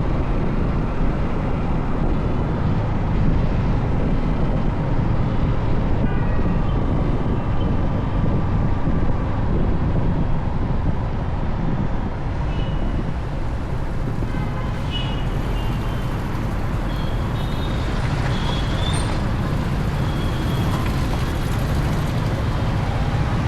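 Motorcycle riding through city traffic: a steady rumble of engine and road noise. Short horn toots from other vehicles come in the second half.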